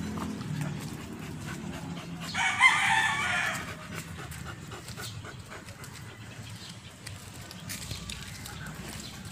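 A loud bird call about two seconds in, lasting about a second and a half, with a wavering pitch.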